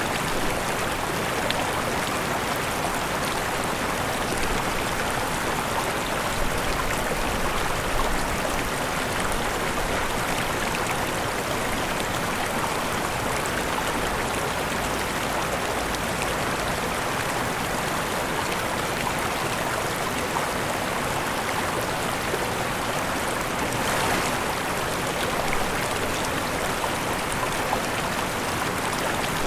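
Waterfall rushing: a steady, even splash of falling water without a break.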